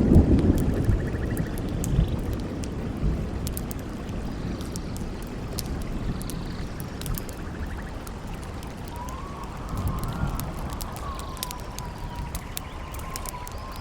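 A thunder rumble dying away over the first couple of seconds, over a steady rushing of water and campfire crackle, sharp pops throughout. About nine seconds in, a wind howl begins: a thin whistling tone that wavers up and down, then holds.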